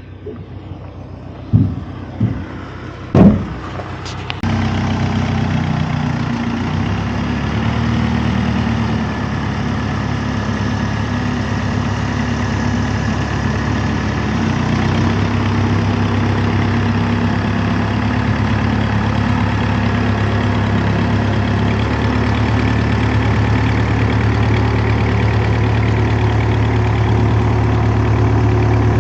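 Three sharp thumps, the last the loudest, then a vehicle engine comes on about four and a half seconds in and runs steadily at idle.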